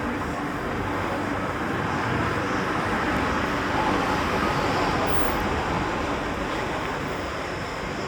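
Street traffic noise, a steady haze of passing vehicles that swells a few seconds in and then eases off again.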